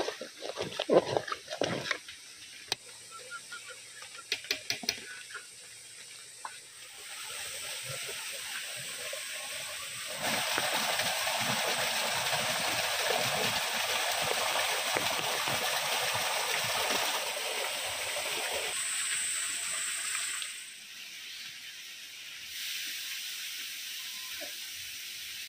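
A spoon knocks in a metal pot of khichuri for the first couple of seconds. About seven seconds in, a steady rush of rain and flowing water sets in. It grows louder about ten seconds in and drops back to a softer rain near the end.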